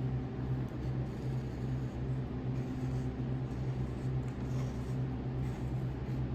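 A steady low mechanical hum from a running motor, holding an even level throughout.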